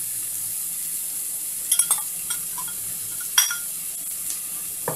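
Chopped onion frying in hot oil in a stainless steel pan: a steady high sizzle, with a few sharp pops of spattering oil about two seconds and three and a half seconds in.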